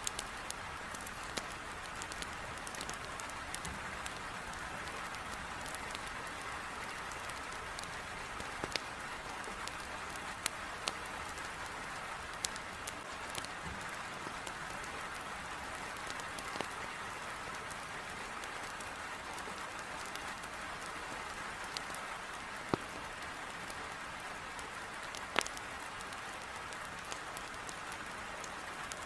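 Heavy rain pattering in a steady hiss, with the irregular sharp pops and crackles of a wood fire burning in a fireplace scattered through it.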